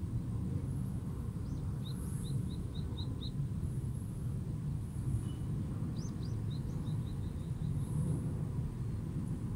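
A small bird giving two quick runs of short, high chirps, one about two seconds in and another about six seconds in, over a steady low background rumble of open-air city noise.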